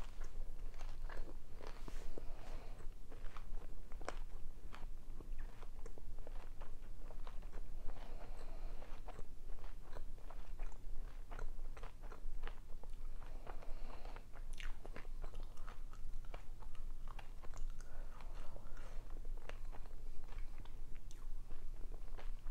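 A person chewing close to the microphone while eating dolmas (stuffed grape leaves) with salad: irregular wet mouth clicks and soft crunches.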